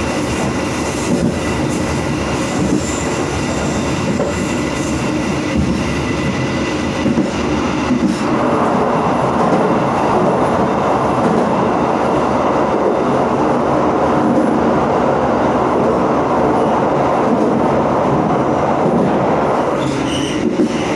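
Freight train running on the rails, heard from the rear of a ballast wagon: a steady rumble of wheels on track with a few clicks. About a third of the way in, a louder rushing noise sets in and eases off near the end.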